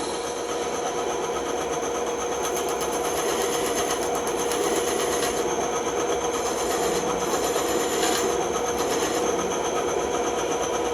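Bandsaw running steadily, its motor and blade giving a constant hum with a hiss over it.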